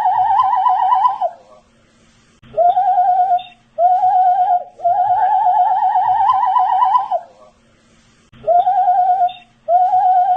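A man whistling a tune with a wavering vibrato. There are held notes that drift slightly upward in pitch, broken by short phrases and pauses of about a second.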